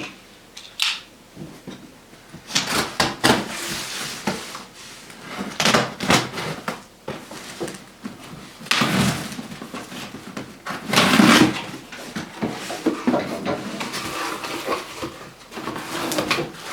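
A cardboard shipping package being opened by hand: irregular rips, scrapes and rustles of cardboard and packing material, loudest about nine and eleven seconds in.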